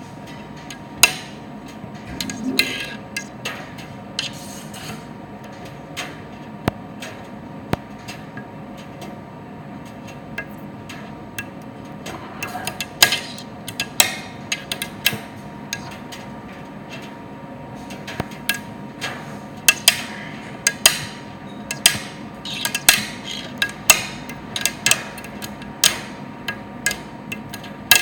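Primus tumble dryer running with a steady motor hum, while irregular sharp clicks and knocks come from the turning drum, more often in the second half.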